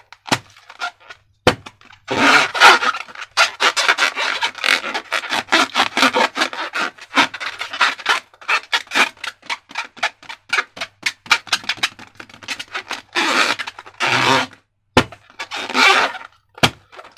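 Slime being squished and stretched by hand, giving rapid crackling clicks in bursts, with a few sharper single pops.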